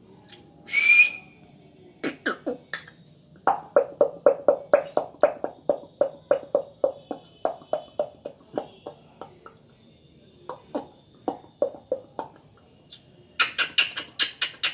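African grey parrot gives one short loud whistle, then a long run of short pops or clicks at about three to four a second. After a pause it breaks into a faster, brighter run of clicks near the end.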